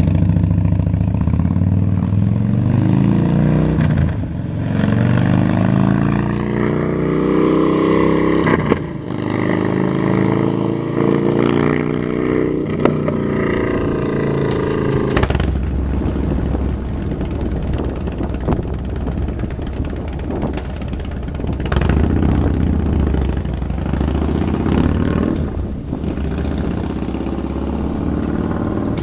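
Harley-Davidson Dyna's 96 cubic inch Twin Cam V-twin running through an aftermarket 2-into-1 exhaust. For the first half it is revved several times, the pitch climbing and falling. About halfway through the sound changes to a deeper, steadier running note with a few short swells.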